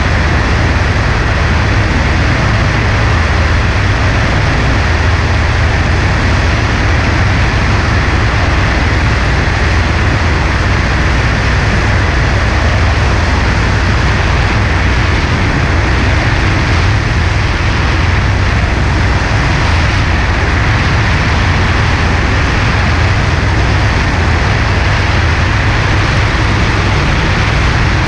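Single-engine Cessna 140A light airplane's engine and propeller running steadily in flight, a constant drone with rushing air noise.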